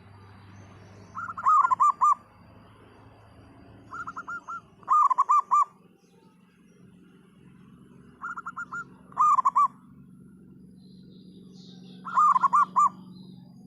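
Zebra dove (perkutut) singing its cooing song: four loud phrases of quick staccato notes, one every three to four seconds. A faint steady low hum lies underneath.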